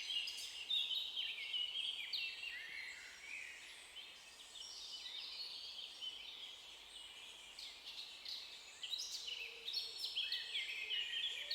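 Songbirds chirping and twittering in many short overlapping calls, busiest in the first seconds and again near the end, thinner in the middle.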